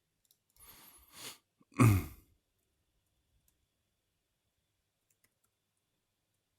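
A person breathes out audibly into a close microphone, then gives a short voiced sigh about two seconds in.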